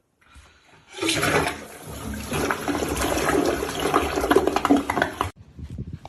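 Water rushing, starting about a second in and cutting off suddenly near the end.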